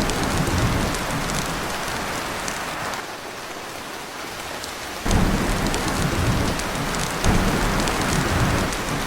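Heavy rain drumming on a tin roof, with low rumbles of thunder. The rumbling eases about three seconds in, then comes back suddenly about five seconds in and swells again a couple of seconds later.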